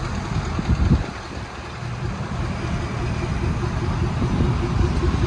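Truck engine idling steadily, with a brief louder swell just before a second in.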